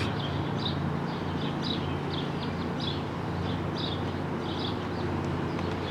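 Lawnmower engines running steadily, a low drone, with short high bird chirps repeating about two to three times a second over it.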